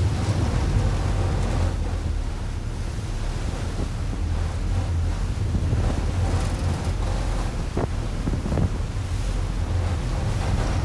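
Harbour ferry's engine rumbling low and steady under wind buffeting the microphone, with water rushing past the hull.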